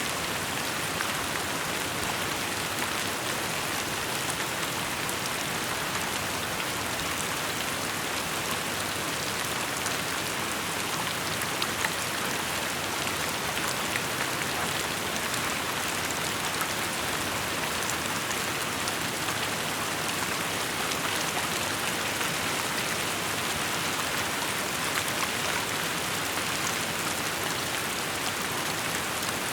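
Steady rainfall: an even hiss of rain with many small drops ticking on surfaces.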